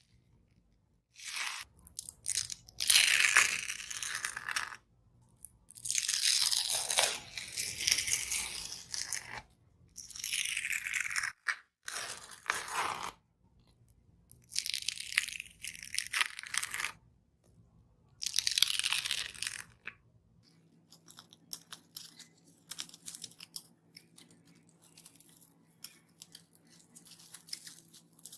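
A dried skin on slime being peeled and torn, making drawn-out hissing tears of one to three seconds each, with short pauses between them. From about two-thirds of the way through, only faint small clicks and crackles remain.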